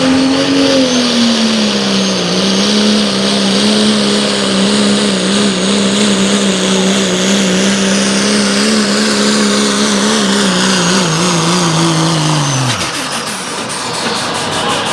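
A pulling vehicle's engine running at high, steady revs under load, its pitch wavering slightly, then falling off sharply about three-quarters of the way through as the throttle comes off at the end of the pull.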